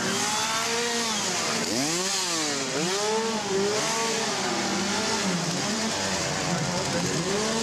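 A chainsaw's small engine revved up and down over and over, its pitch rising and falling in quick swells.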